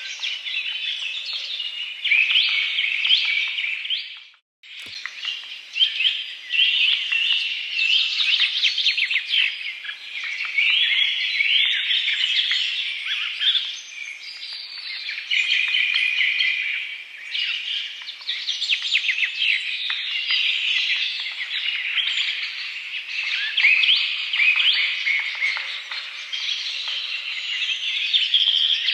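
Many birds chirping and singing at once in a dense, continuous chorus of short high chirps and trills. About four seconds in, the sound cuts out to silence for a split second, then resumes.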